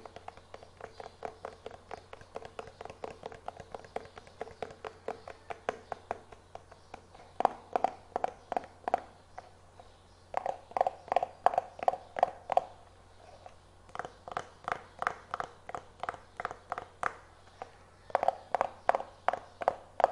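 Fast finger tapping on a hard, slightly hollow object: rapid runs of about six taps a second, each with a short ringing note, broken by brief pauses.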